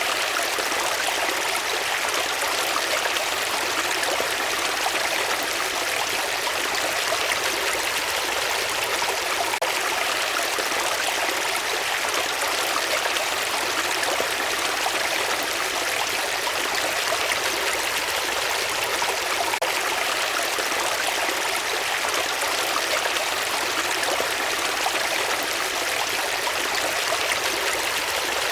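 Running water, such as a stream, rushing steadily and evenly without a break.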